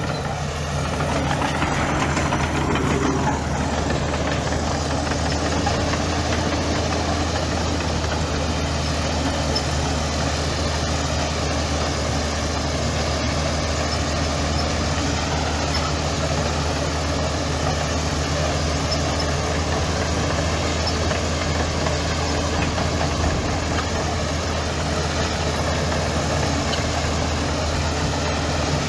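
Heavy construction machine's diesel engine running steadily with a low, even hum, swelling briefly a second or two in.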